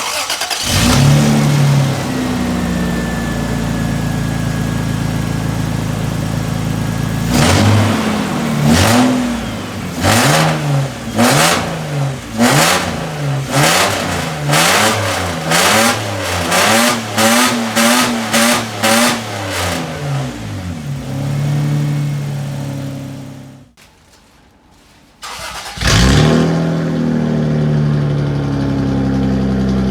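Toyota 1G-EU two-litre inline-six engine starting and idling steadily. About seven seconds in it is blipped through a rapid series of a dozen or more throttle blips that come faster toward the end, each revving up cleanly, as a healthy engine does. It then settles back to idle, is switched off, and is started again to idle.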